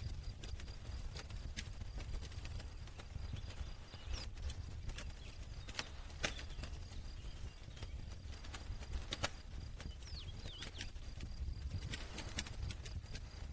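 Campfire crackling: irregular sharp pops and snaps over a low steady rumble, with the loudest pops about six and nine seconds in.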